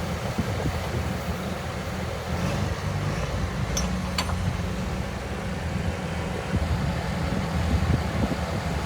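Diesel engine of heavy earthmoving machinery running steadily with a deep rumble. Two brief sharp clicks come a little before halfway through.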